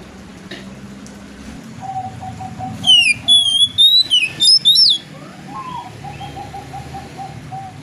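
Oriental magpie-robin (kacer) singing: a loud burst of high whistled notes that slide up and down, starting about three seconds in and lasting about two seconds. Softer, evenly repeated short notes come before and after it.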